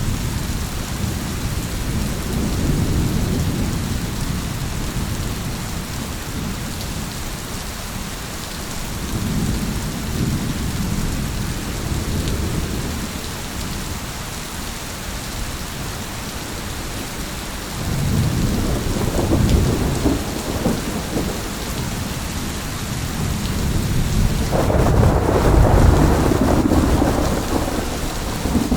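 Steady heavy rain with thunder rolling in low rumbles several times, the loudest and longest rumble coming about three-quarters of the way in.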